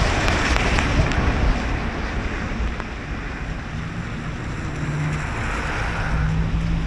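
Car driving on a wet road in the rain: a steady hiss of tyres on wet pavement over a low road rumble, dipping slightly about halfway, with a low engine hum coming in near the middle.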